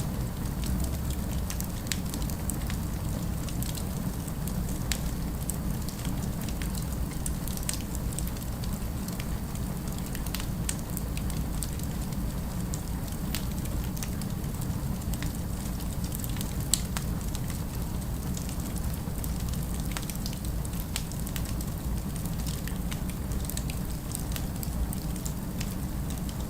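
Fireplace fire crackling, with scattered sharp pops over a steady low rumble, and one louder pop about two-thirds of the way through.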